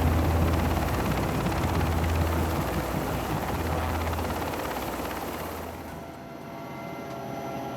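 Sea King rescue helicopter running loud, its rotors and turbines making a dense roar with a heavy low beat. About six seconds in it drops to a quieter, steady drone with a few whining tones.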